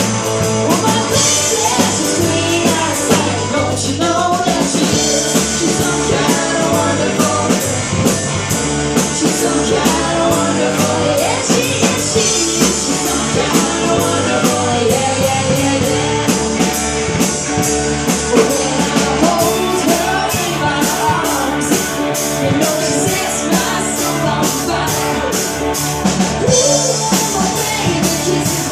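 Live rock band playing, with a drum kit keeping a steady beat under the instruments.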